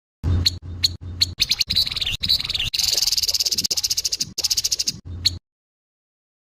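Grey-headed babbler giving its harsh call: a few sharp clicking notes, then a fast, rasping rattle, stopping abruptly about five seconds in. A low hum runs underneath the calls.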